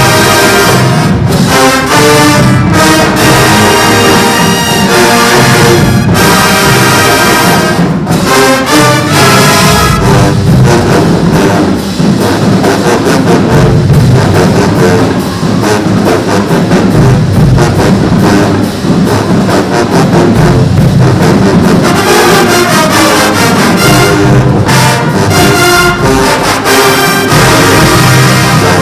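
Marching band playing loudly in full ensemble: brass (trumpets and trombones) over a steady drum beat. The higher brass thins out through the middle, then comes back in full a little past two-thirds of the way through.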